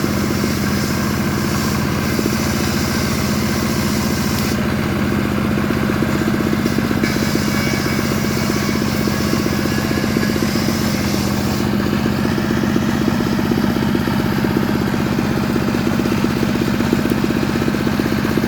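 Stihl MS385 two-stroke chainsaw running steadily while sawing wood, its tone shifting slightly a few times.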